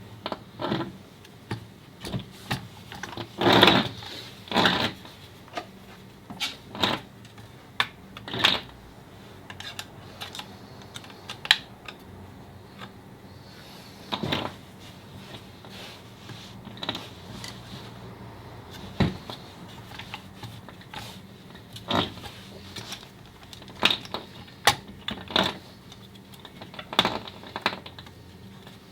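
Workshop hand work on metal parts: irregular sharp clicks and clinks, with a few louder clatters about three to five seconds in and scattered single clicks after.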